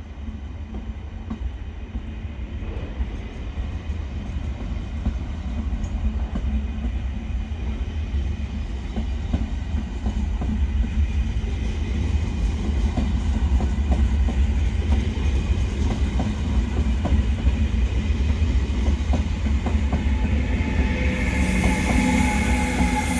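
Railjet passenger train pulling out of a station and rolling past: a steady low rumble with wheels clicking over rail joints and points, getting louder as the train picks up speed. Near the end the electric locomotive at the rear passes close, adding a whine and a hiss.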